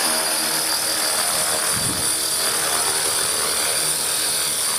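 Align T-Rex 450 electric RC helicopter in a hover, its motor and rotor giving a steady high-pitched whine.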